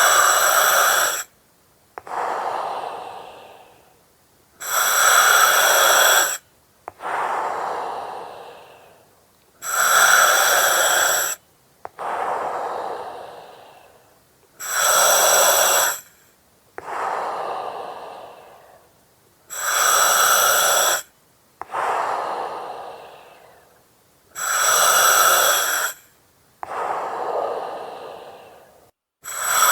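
Slow, regular breathing through an oxygen mask, about one breath every five seconds. Each breath is a sharp hiss of gas through the mask regulator, with a thin whistle in it, cutting in and off abruptly. A softer breath follows that fades away.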